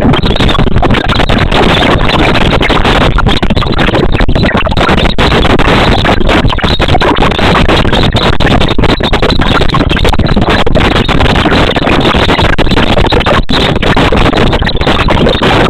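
Loud, steady rushing noise that keeps an even level throughout, with no distinct tone or rhythm.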